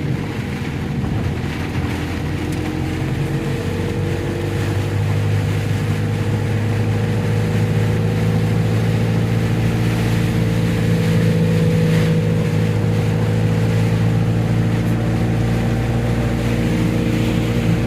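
An engine running steadily at an even speed, with a steady hiss over its hum.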